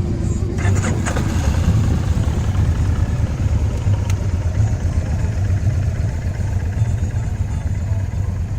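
A motorcycle engine running, a steady, uneven low rumble. There is a single sharp click about four seconds in.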